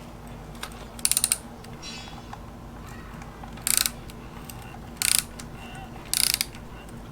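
Hand ratchet with a 13mm socket clicking in four short bursts as it backs out bolts on an LS V8 engine's manifold.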